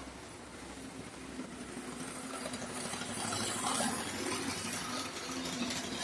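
Tyco HO-scale model diesel locomotive running on the layout track: its small motor whirring and its wheels clattering over the rails. It gets louder to a peak a little past the middle as it passes close, then eases off a bit. The freshly serviced locomotive is still wearing in, its traction tires seating.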